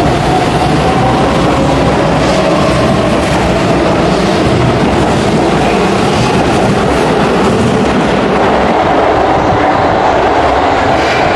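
Keihan 7200 series electric train pulling out of an underground station platform: loud, steady running noise, with a faint steady tone over it.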